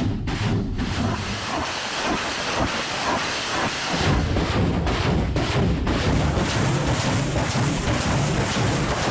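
Multiple rocket launcher firing a salvo: rockets leaving one after another in a continuous rushing roar broken by many short, sharp bursts.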